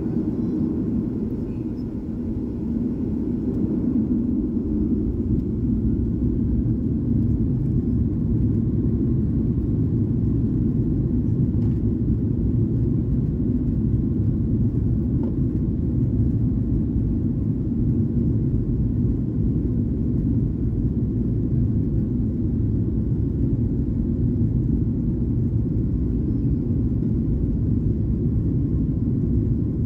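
Cabin noise of a Boeing 737-800 on takeoff: a deep, steady rumble from its CFM56 engines and the airflow, growing louder a few seconds in and then holding steady.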